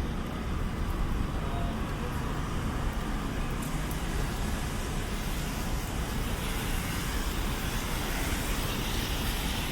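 Steady city street traffic: motor vehicles running by on wet pavement, with a tyre hiss that grows louder in the second half.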